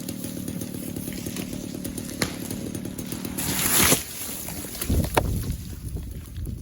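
Chainsaw running steadily, then a short, loud rushing noise about halfway through, followed by two heavy low thuds about five seconds in.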